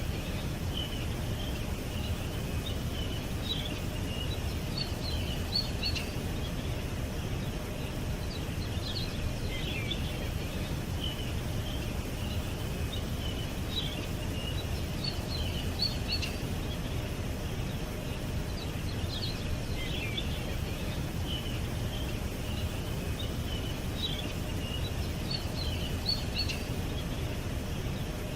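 Small birds chirping and twittering in short scattered bursts, over a steady low rumbling background noise.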